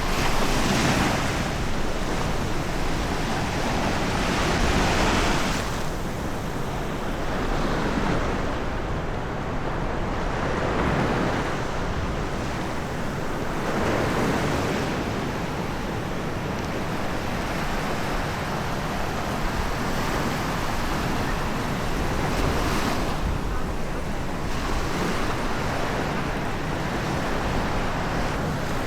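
Sea waves breaking and washing up on a sandy beach, swelling and easing every few seconds, with some wind on the microphone.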